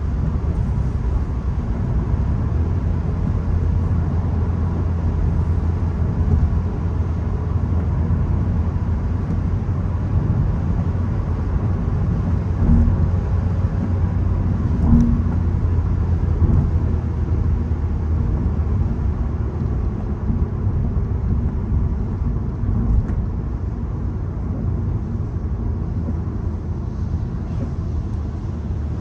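VW Golf 1.0 TSI being driven: a steady low engine drone from its three-cylinder turbo petrol engine mixed with tyre and road noise, with a few brief knocks around the middle.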